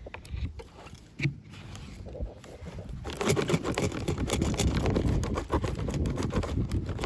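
Plastic packaging crinkling and rustling as it is handled: scattered clicks at first, then a dense, louder crackle from about three seconds in.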